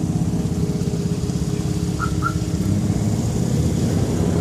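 Car engine idling close by with a steady, rapid exhaust pulse. Two short high chirps sound about two seconds in.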